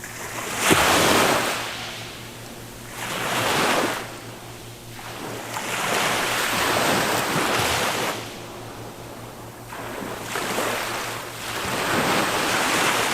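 Small waves of a calm sea breaking on a beach and washing in, about five surges of hiss. The first surge, about half a second in, is the loudest.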